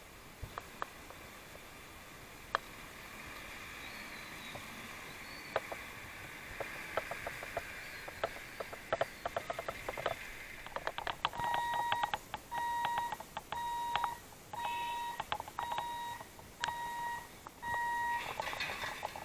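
An electronic warning beeper sounds a steady single-pitched beep about once a second, starting a little past halfway through. Before it there is a background hiss with scattered sharp clicks and clatter.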